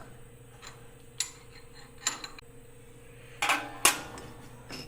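Scattered metal clinks and knocks from handling the tilting 4th-axis rotary head, with a louder pair of clanks about three and a half seconds in, over a faint steady hum.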